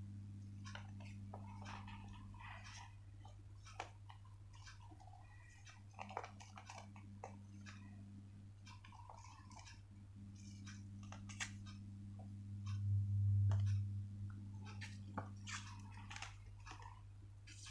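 Sheets of paper rustling and crinkling in the hands, with scattered small clicks and creasing sounds as the paper is folded, over a steady low electrical hum that swells briefly about three-quarters of the way through.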